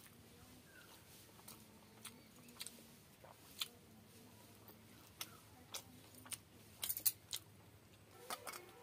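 Close-miked eating: a person chewing a mouthful of small-fish chadachadi and rice, with short wet mouth clicks and lip smacks scattered through, the loudest little cluster about seven seconds in. A faint steady hum lies underneath.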